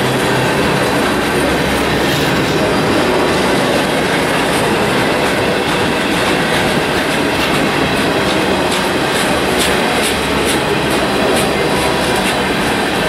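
Freight cars of a manifest train rolling past close by: steady rumble and clatter of steel wheels on the rails. A run of sharp, high metallic clicks comes about two-thirds of the way through.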